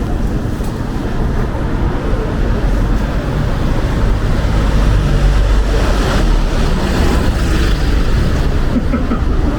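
Wind buffeting the microphone: a loud, heavy low rumble that swells a little toward the middle.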